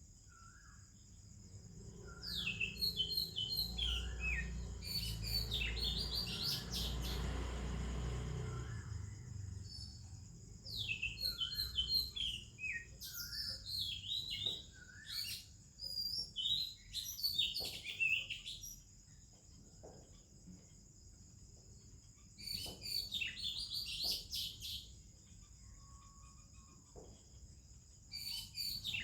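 Oriental magpie-robin singing in bursts of quick, varied whistles and warbles, with pauses between phrases, over a steady high hum. A low rumble sounds for several seconds near the start.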